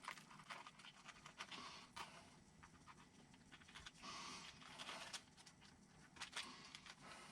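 Near silence with scattered faint clicks and a few brief light scrapes: small kit parts and washers being handled during assembly.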